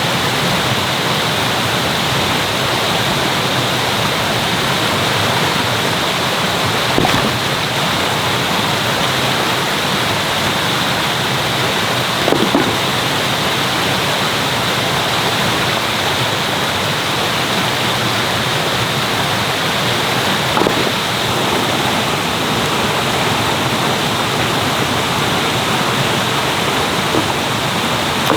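Mountain stream rushing steadily over rocks, with three brief slightly louder sounds about 7, 12 and 21 seconds in.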